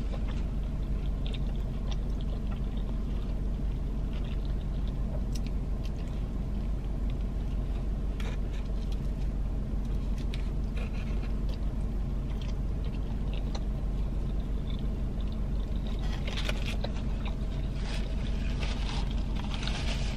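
Chewing a cheeseburger with soft mouth noises and scattered crackles of a paper napkin and wrapper, heard inside a car cabin over the steady low hum of the idling car. The crackles come more often near the end.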